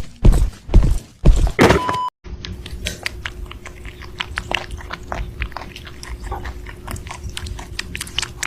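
A few heavy thumps, then a cat chewing: a long run of quick, crisp crunching clicks over a faint steady hum.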